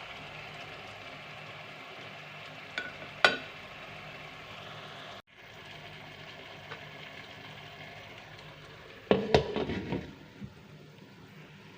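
Food sizzling as it fries in a pan, with a cooking utensil knocking against the pan a couple of times about three seconds in and in a quick cluster near the end.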